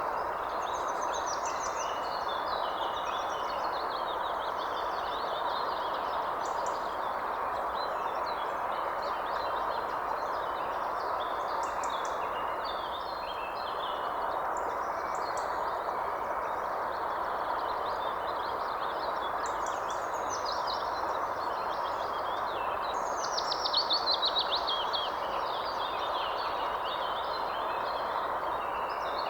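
Several birds chirping and singing over a steady background hiss. A louder rapid trill of quick falling notes comes about three-quarters of the way through.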